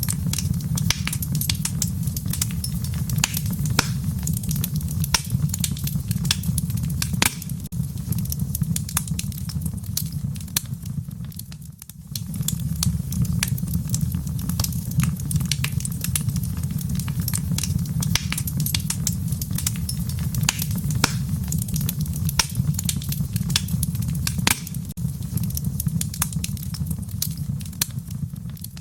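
Wood fire crackling in a fireplace: many sharp, irregular pops and snaps over a steady low rumble, dipping briefly about halfway through.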